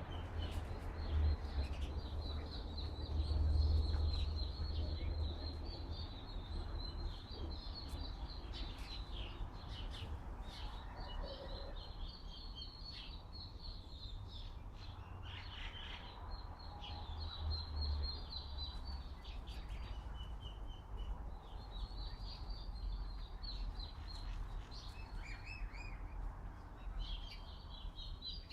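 Small birds chirping and singing continuously in high, rapid phrases, over a low rumble of wind on the microphone.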